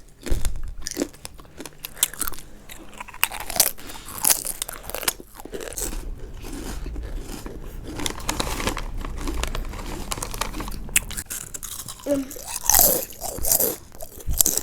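Crisps being bitten and chewed close to the microphone: a run of irregular sharp crunches.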